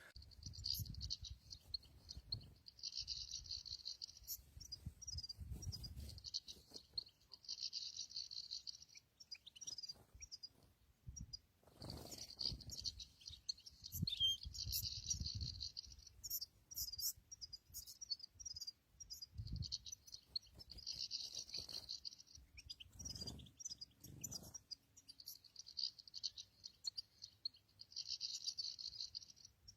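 Small songbird twittering in bursts of high chirps, each about a second long and a few seconds apart, over a low rumbling noise.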